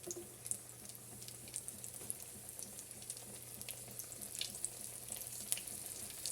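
Flour-coated chicken pieces frying in olive oil in a pan: a steady sizzle with scattered crackles and pops.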